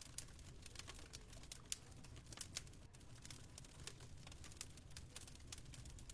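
Faint wood fire in a fireplace crackling, with many irregular small pops and snaps over a low steady rumble.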